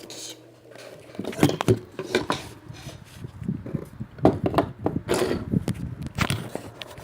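Irregular knocks, clicks and clatter of small objects being handled and set down on a table, over a faint steady hum from an electric fan.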